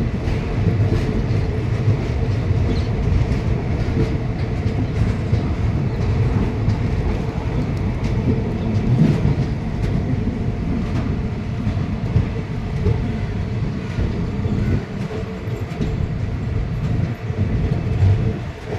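A train running on the rails: a steady low rumble with scattered clacks of the wheels over the track.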